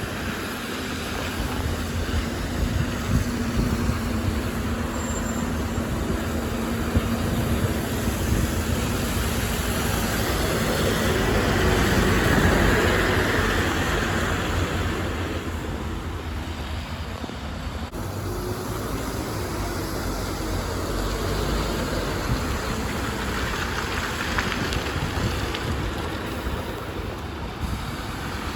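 City bus engine running, with a steady hum at first, growing louder to a peak about twelve seconds in and then fading as the bus moves off, amid street traffic.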